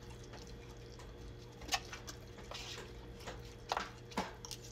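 Eating sounds: chewing spaghetti with a few soft, wet mouth clicks and smacks spread through, over a steady low hum.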